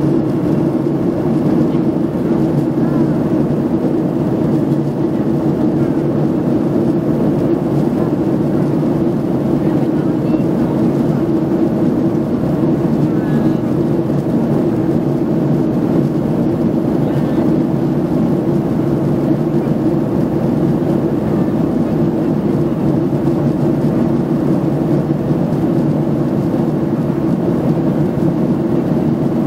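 Steady drone inside a jet airliner's cabin in flight: the engines and rushing air make an even, unchanging low rumble.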